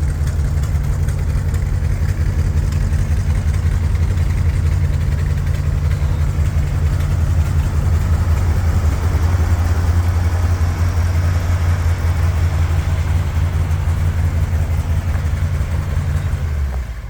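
Dodge D600 grain truck's engine idling steadily, then dying away right at the end.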